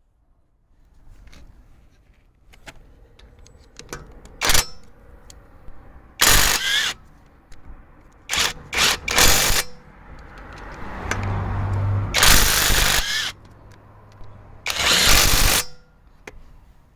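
Cordless 18-volt brushless impact driver hammering on a van's wheel nuts in about six short bursts, each a second or less, undoing them.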